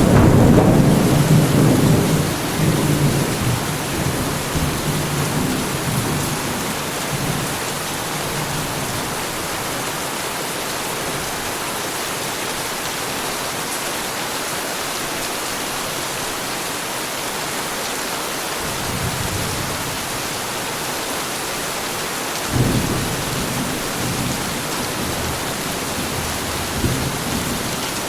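Heavy rain falling steadily, with thunder: a low rumble dying away over the first several seconds, a faint roll a little later, and a sharper thunderclap about 22 seconds in that rumbles on to the end.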